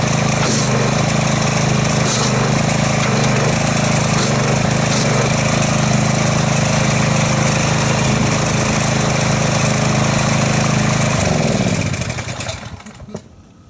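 Gas-engine pressure washer running steadily, its spray hissing, as it jets water into a bucket of soapy water to whip up suds. Near the end the engine note sinks in pitch and the sound dies away as the engine shuts down.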